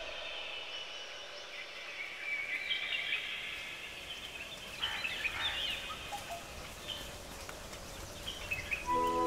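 Natural ambience with scattered short bird chirps and trills over a faint background hiss. Soft mallet-percussion music comes in near the end.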